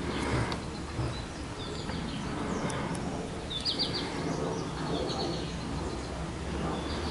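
Small birds chirping in short runs of quick high notes, twice about midway, over a steady outdoor background hum, with a few light clicks.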